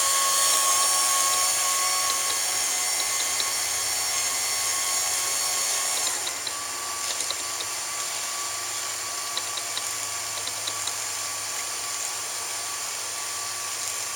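Gromax GT35L tool and cutter grinder running, its electric motors giving a steady high whine over a low hum. The sound drops slightly about six seconds in, and faint light ticks come through after that.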